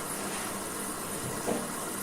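Washing machine running in its wash cycle, water sloshing in the turning drum over a steady hum, with a louder swish about one and a half seconds in.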